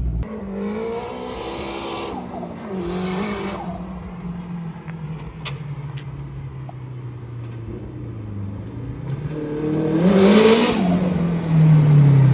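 Turbocharged forged SR20 four-cylinder in a Nissan S13 Silvia revving in short bursts, pitch rising and falling, then a harder, louder rev with a rush of noise about ten seconds in.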